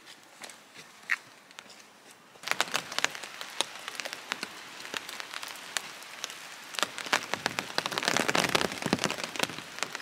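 Rain falling, with many sharp ticks of drops over a steady hiss. At first only a few drops are heard, then from about two and a half seconds in the rain is dense and steady.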